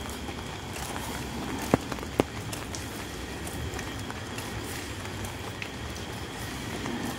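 Steady rain falling, with scattered drip ticks and two sharp taps about two seconds in.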